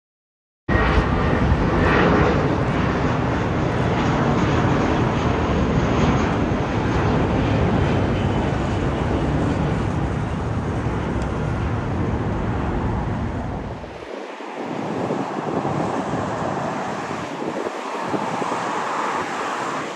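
Jet airliner engines running close by: a loud, steady roar with faint whining tones, starting abruptly about a second in. About 14 seconds in the deep rumble drops out and a quieter roar carries on.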